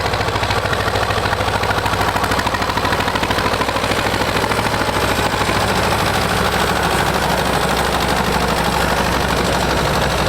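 Tractor engine running steadily close by, with a rapid, even exhaust beat.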